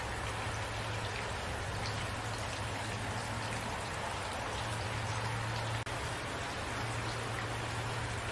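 Steady rain falling, an even hiss with individual drops ticking now and then, over a low steady hum. The sound drops out very briefly about six seconds in.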